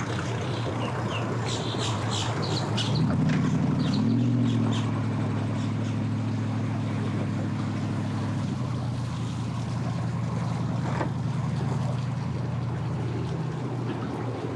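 A boat motor running at low speed. It grows louder about three seconds in, rises briefly in pitch a second later, then settles to a steady run. Faint bird chirps come in the first few seconds.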